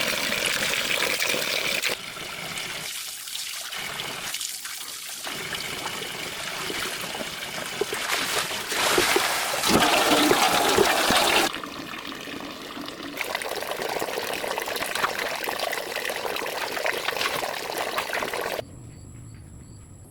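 Water trickling and splashing, a steady noisy wash that changes abruptly a few times and drops away to a much quieter sound near the end.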